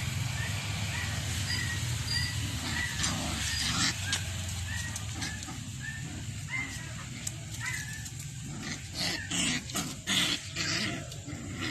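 Askal puppies play-fighting, giving short high yips that repeat about twice a second. A burst of scuffling, louder noises comes near the end.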